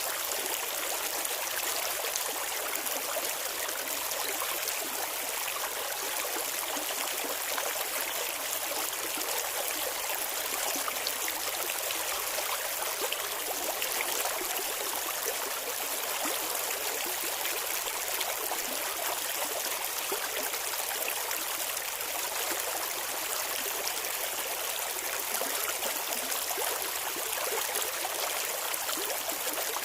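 Clear river water flowing and trickling steadily over stones, a constant bubbling hiss with no change throughout.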